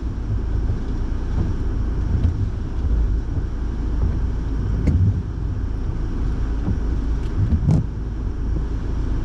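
Inside a car's cabin: steady low rumble of the car running, with the heater fan blowing. Two brief knocks, about five seconds in and again near eight seconds.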